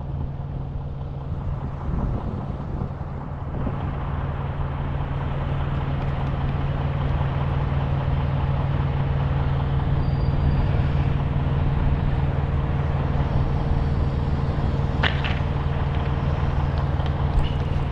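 Heavy engine idling with a steady low hum. The overall noise rises after about four seconds, and there is a brief sharp metallic clink near the end.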